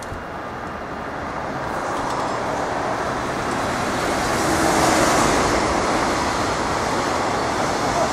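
JR Freight EF210 electric locomotive passing at close range at the head of a container freight train. The noise swells to its loudest about five seconds in as the locomotive goes by, then the steady running noise of the container wagons' wheels on the rails follows.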